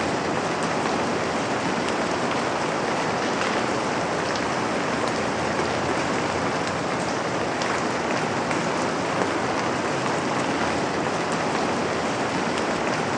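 Steady rain falling on a window, an even hiss with faint scattered taps of single drops.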